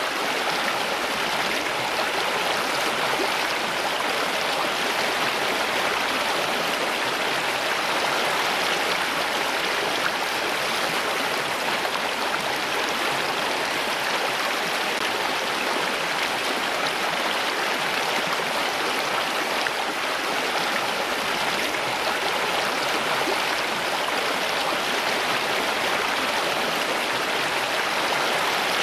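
Flowing water, a steady even rush like a stream, unchanging throughout.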